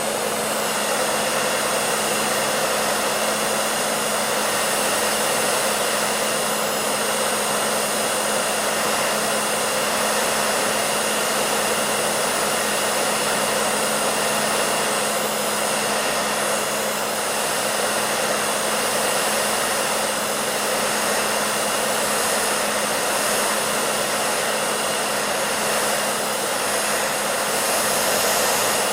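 Hair dryer running steadily: a constant rush of blown air with a low, even motor hum underneath.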